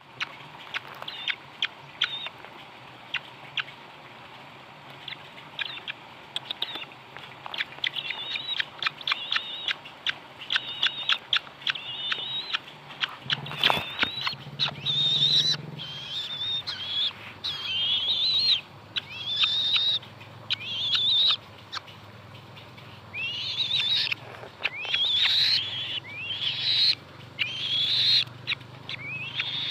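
A bird calling: short sharp chirps in quick strings during the first half, then from about halfway longer, wavering, high calls repeated roughly once a second.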